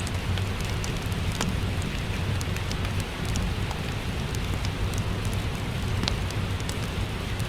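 Steady rain mixed with a crackling wood fire: an even hiss and low rumble, with small scattered crackles and two sharper pops, one about a second and a half in and one about six seconds in.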